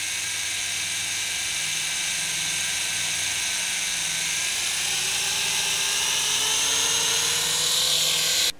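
Syma S111G toy RC helicopter's small electric rotor motors whining steadily, the pitch creeping slowly upward, then cutting off abruptly near the end.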